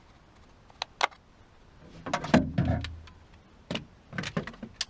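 Clicks and knocks from taking apart a car door lock assembly with a screwdriver: scattered sharp clicks, a louder clatter about two seconds in, and a quick run of clicks near the end.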